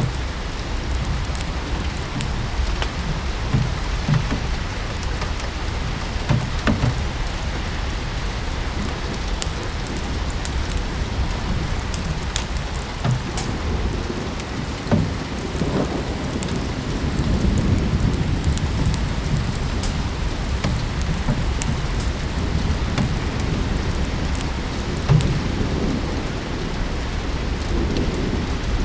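Steady rain falling, with scattered sharp crackles from a fireplace fire. A low rumble swells about two-thirds of the way through.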